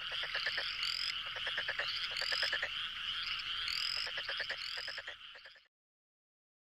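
A chorus of many frogs calling at once: quick pulsed calls over a dense din, with rising whistle-like notes every second or so. It fades and cuts off after about five and a half seconds.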